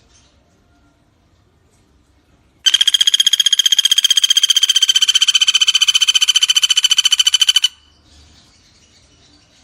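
Pelatuk bawang, a small woodpecker, giving one loud, very rapid trill at a steady pitch that starts about three seconds in and lasts about five seconds.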